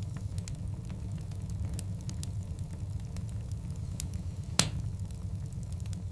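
Wood fire of large burning logs crackling over a steady low rumble of the flames, with scattered small pops and one loud snap about four and a half seconds in.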